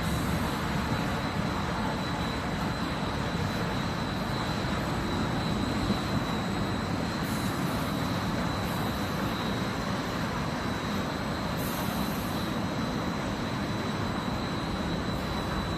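Nonwoven wadding felt production machine running: a steady mechanical noise with a thin, steady high whine over it.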